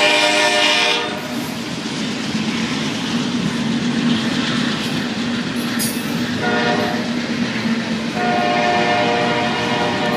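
Freight train passing with its locomotive horn blowing: the horn chord cuts off about a second in, giving way to the rumble and wheel clatter of the train. The horn sounds again briefly past the middle and once more from about two-thirds through.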